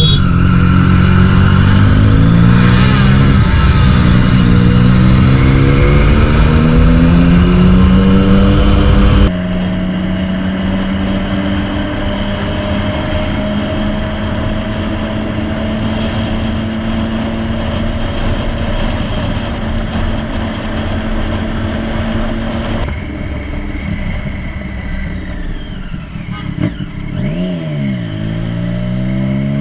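Motorcycle engine heard from the rider's own camera. For the first nine seconds it revs rising under acceleration with loud wind noise. After an abrupt cut it holds a steady tone at cruise, and near the end it drops sharply and climbs again.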